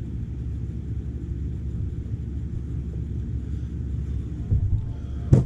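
Steady low background rumble, with one sharp knock near the end.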